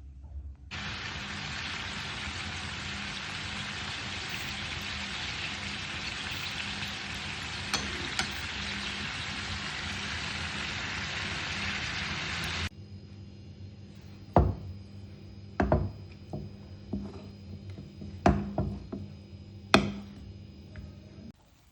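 Food frying in a hot pan with a steady sizzle that cuts off suddenly, followed by about half a dozen sharp knocks of kitchen utensils.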